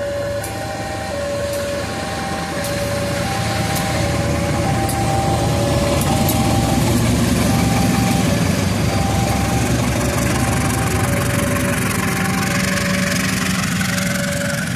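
Railway level-crossing alarm sounding two alternating tones, a high and a low note about every half second, while a diesel-hauled train passes. Its engine and wheel noise builds to a peak midway and eases off near the end.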